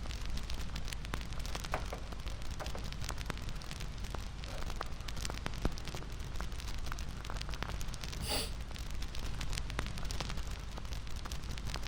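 Bonfire crackling: a steady low rumble from the burning fire with many small, irregular pops and snaps.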